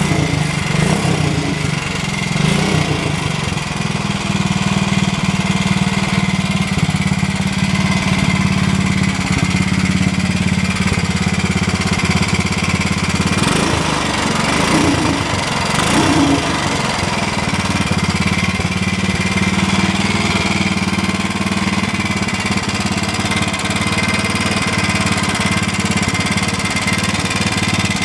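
1968 Ducati 250 bevel-drive single-cylinder overhead-cam engine idling steadily through its exhaust, warming up after a cold start; kind of loud. A few brief sharper sounds come about halfway through.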